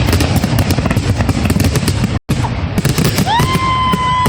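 Fireworks display going off in a dense, rapid barrage of cracks and bangs, typical of a grand finale. About three-quarters through, a high steady whistle comes in over it. The sound drops out for an instant just past halfway.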